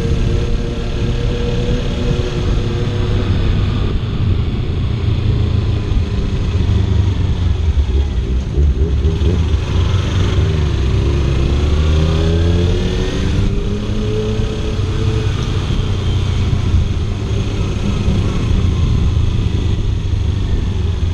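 Kawasaki Ninja 300 motorcycle's parallel-twin engine running at road speed, with wind rushing over the helmet microphone. About ten seconds in the engine pitch climbs as the bike accelerates, then eases off.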